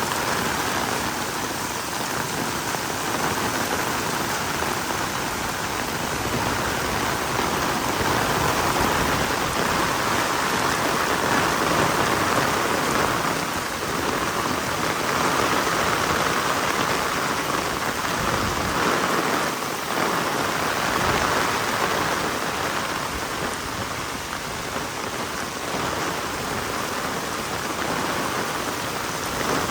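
Heavy rain falling steadily, a dense even patter of drops on the ground and surfaces, swelling and easing slightly.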